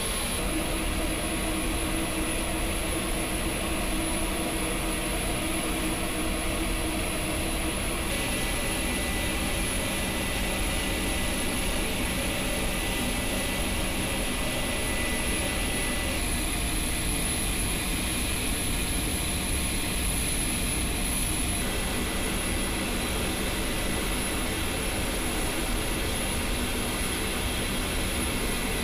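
The HC-130J's four Rolls-Royce AE 2100D3 turboprop engines running with a steady drone and a constant high turbine whine.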